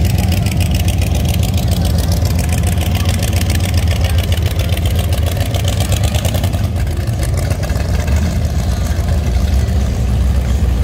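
Classic cars and a hot rod rolling slowly past one after another, their engines running in a steady low rumble.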